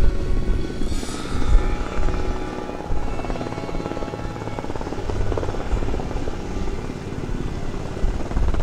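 UH-60 Black Hawk helicopters flying close by, a steady rotor chop with the whine of their turbine engines.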